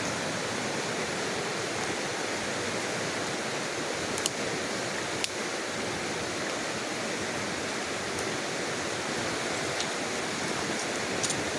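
Creek water running over rocks, a steady rush, with a few faint clicks now and then.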